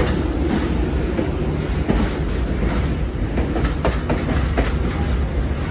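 Passenger train carriages rolling past on the track, a steady rumble with wheels clacking over the rail joints. Vietnam Railways SE4 express pulling into a station.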